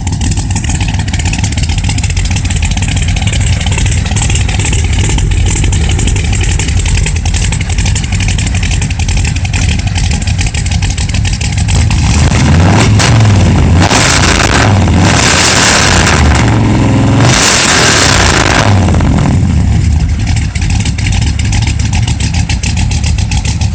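Blueprint 383 stroker small-block Chevy V8 with a 280/290 duration cam and Moroso spiral flow mufflers idling steadily, then revved several times in a row about halfway through, pitch rising and falling, before settling back to idle. The timing is freshly set and it is firing on every cylinder.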